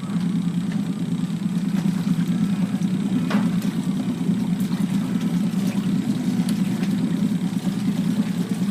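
Washing machine spinning, its drum and motor giving a loud, steady hum.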